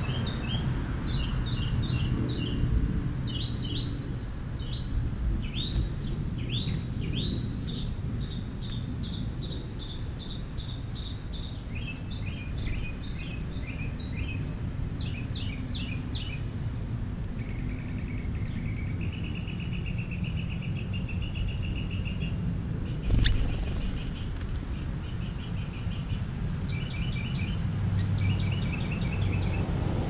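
Songbirds chirping and calling in quick, repeated short notes and trills, over a steady low outdoor rumble. A single sharp click comes about two-thirds of the way through.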